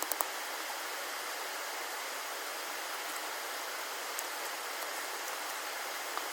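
Steady rush of running water, with a few faint light ticks.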